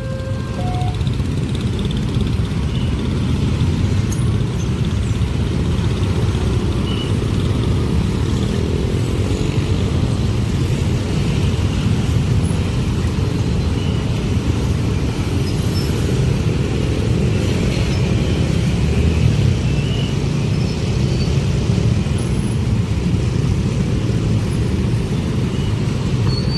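A long train passing close by, its wheels rumbling steadily on the rails.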